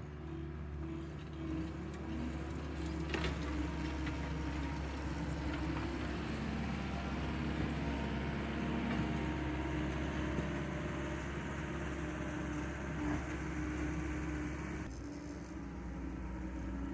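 Tractor engine running steadily while driving a power rake over rough ground, with a few brief clicks.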